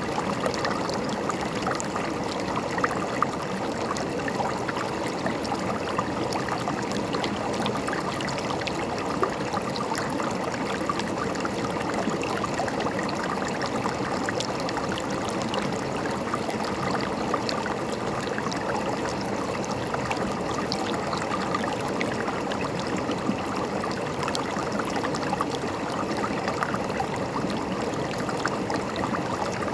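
A river running steadily over rocks: continuous rushing water with many small splashes and gurgles.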